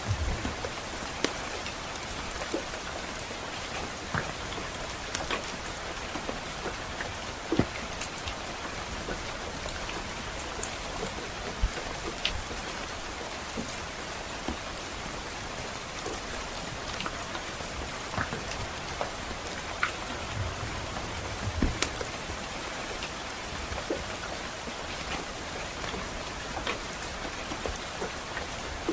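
Steady soft rain falling, with scattered sharp crackles and pops from a fireplace.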